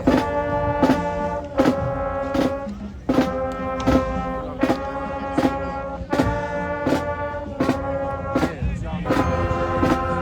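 Marching band brass section playing loud held chords over a steady drum beat, a hit about every three-quarters of a second, with short breaks between phrases.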